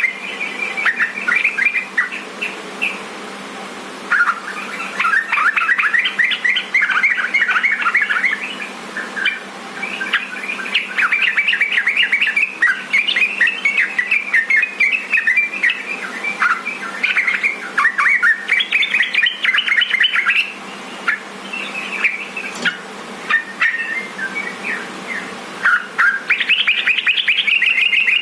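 Yellow-vented bulbul (trucukan) singing: a lively, chattering run of quick notes in repeated phrases with short breaks between them.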